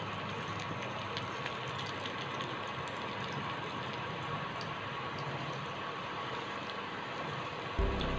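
Oil sizzling steadily around an egg omelette shallow-frying in a pan, with a few scattered crackles. Music comes in near the end.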